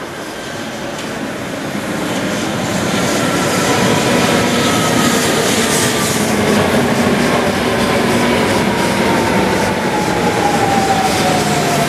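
Ampang Line LRT train arriving, getting louder over the first few seconds with a rumble of wheels on rail. Its motor whine falls slowly in pitch throughout as the train slows for the station.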